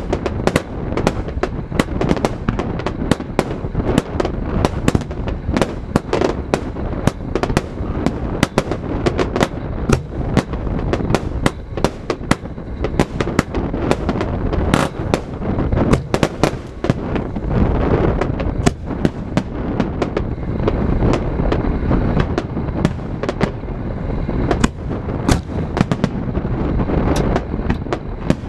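Fireworks display: a rapid, continuous barrage of shell bursts and crackling reports, several sharp bangs a second over a steady low rumble.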